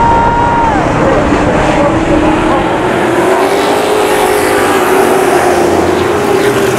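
Race engines running at speed on a short oval, the main engine note rising and easing gently. A second, higher engine note drops away in the first second.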